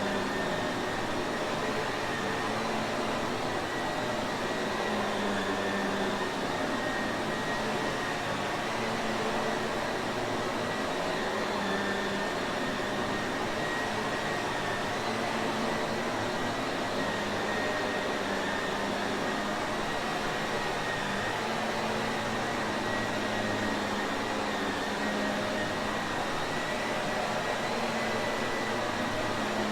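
Shark Navigator vacuum cleaner running continuously: a steady motor and airflow rush with a thin, unchanging whine on top.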